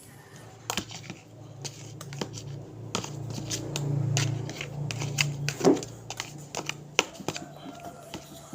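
Irregular clicks and taps of a spoon in a container as slime ingredients (clay, soap and water) are stirred, with a low hum that swells and fades in the middle.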